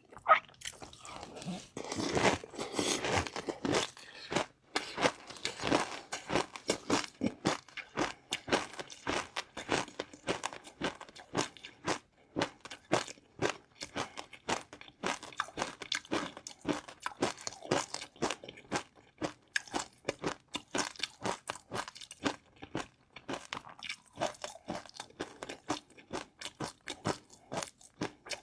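Close-miked eating: a person biting and chewing crunchy food, with rapid, dense crunches throughout and a louder spell of bites a couple of seconds in.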